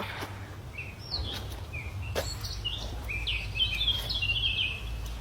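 A bird chirping a series of short high notes that come faster near the end, over a steady low rumble of outdoor background noise, with a single sharp click about two seconds in.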